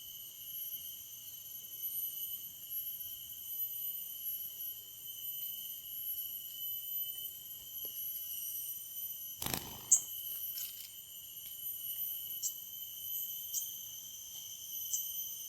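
Insects, crickets or cicadas, shrilling steadily in a continuous high chorus. About nine and a half seconds in comes a brief rustle, followed by a few short, sharp high chirps.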